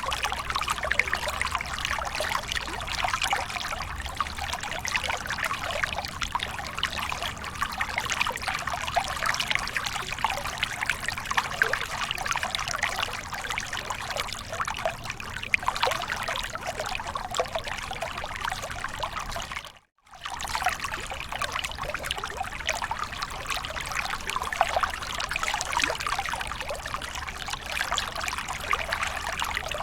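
Waterfall: water pouring and trickling with steady splashing. It cuts out to silence for a moment about two-thirds of the way through.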